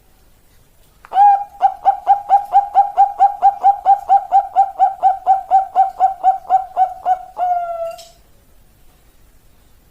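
A zebra dove (perkutut) singing its long song: an opening coo, then a quick even run of about two dozen short coos, about four a second, ending in one longer drawn-out coo.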